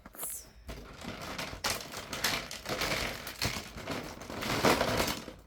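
Plastic toy train set pieces being handled and rummaged through, a rustling clatter with scattered clicks that gets louder about two seconds in and again near the end.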